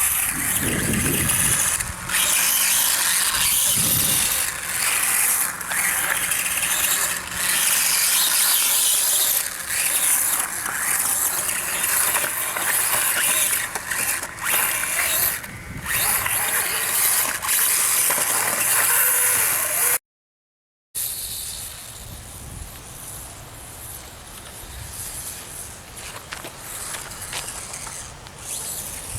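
Battery-electric RC dirt bike running, its brushless motor whining and gliding up and down in pitch with the throttle over a steady hiss. The sound cuts off briefly about 20 s in and comes back quieter.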